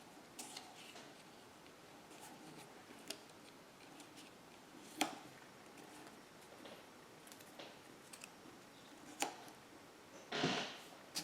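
Paper cutouts being handled on a craft table: faint scattered light clicks and taps, with a louder rustle near the end.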